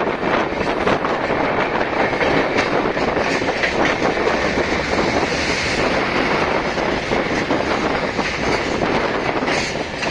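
Express train running at speed, heard from a carriage: a steady rumble of wheels on the rails with many quick clicks and rattles.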